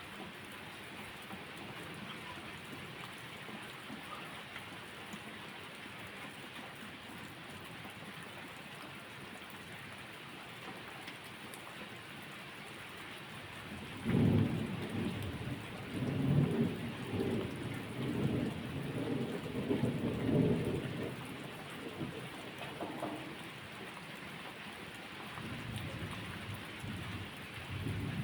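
Steady rain falling, with a roll of thunder that breaks in suddenly about halfway through and rumbles in waves for about seven seconds. A fainter rumble follows near the end.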